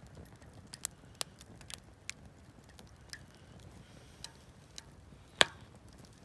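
Wood campfire crackling: a dozen or so irregular sharp pops and ticks, with one loud pop about five seconds in.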